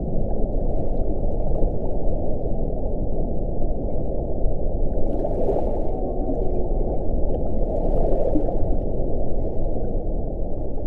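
Low, rumbling wind blowing steadily, with a stronger gust swelling about halfway through and another a couple of seconds later.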